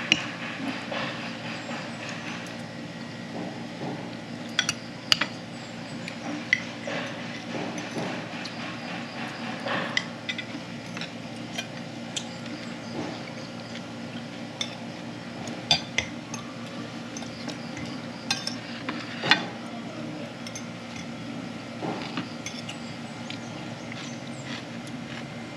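Cutlery and dishes clinking: sharp clicks of metal on plates and glass every second or few during a meal, over a steady background hum.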